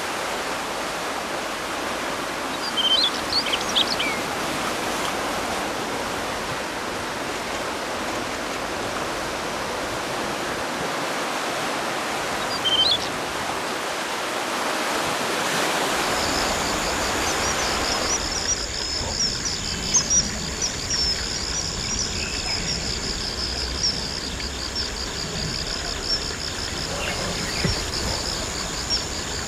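A stream running steadily, with a few short high bird chirps about 3 and 13 seconds in. About two-thirds of the way through it gives way to a wild-bird recording with a steady high-pitched tone and a fast, even, pulsing trill above it, with a few faint calls.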